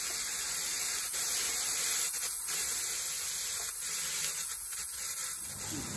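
Onion, garlic and ginger paste frying in hot oil in a kadai: a steady high sizzle, with a few faint scrapes as it is stirred with a wooden spatula.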